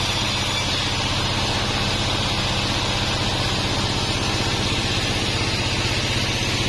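Sawmill band saw machine running with a steady hum and hiss, unchanging throughout.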